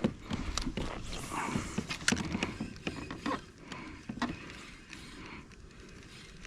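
Irregular light clicks and knocks of fishing gear being handled on a kayak, thinning out after about four seconds.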